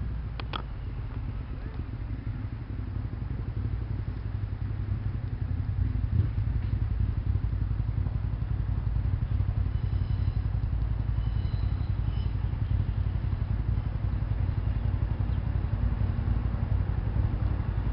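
A diesel train's engine rumbling low and steady as it draws near, growing louder about four seconds in.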